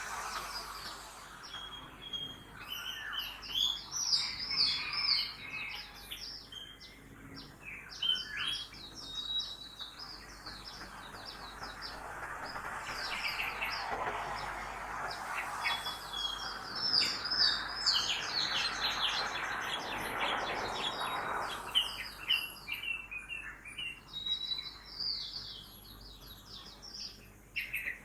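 A chorus of many small birds chirping and trilling rapidly over town background noise. In the middle a broad traffic hiss from a passing car swells and then fades.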